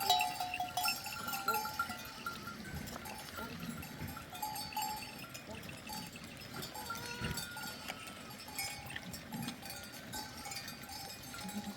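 Bells on a flock of sheep and goats clinking and ringing on and off, several pitches at once.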